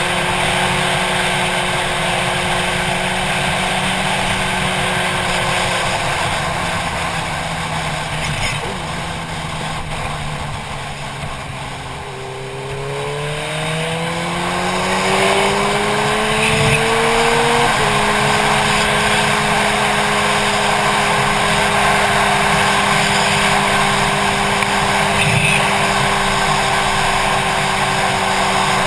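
Motorcycle engine under way, with wind rushing past the helmet-mounted camera. The engine note drops as the rider eases off, then climbs for about five seconds under acceleration. It changes suddenly about two-thirds of the way through and then holds steady at cruising speed.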